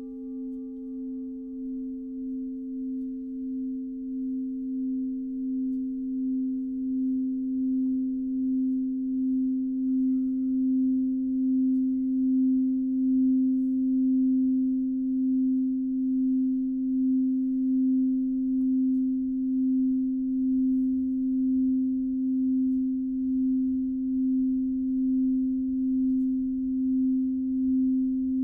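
Singing bowl sounding one steady low pure tone with a faint higher overtone. The tone pulses gently about once a second and swells over the first dozen seconds, then holds.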